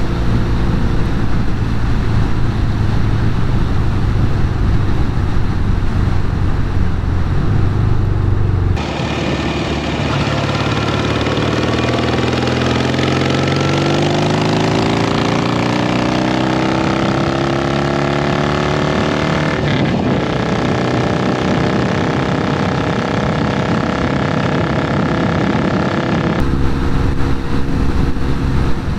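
Norton Commando 850 Mk2's air-cooled parallel-twin engine running under way. Its pitch rises steadily as the bike accelerates, then changes abruptly about twenty seconds in, as at a gear change.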